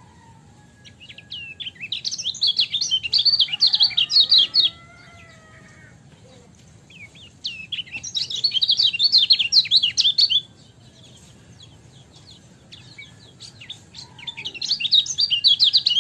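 Kecial kuning white-eye singing its fast chattering 'ciak' song in three bursts of about three seconds each, with quiet gaps between. Faint sliding whistles of another bird sound behind it.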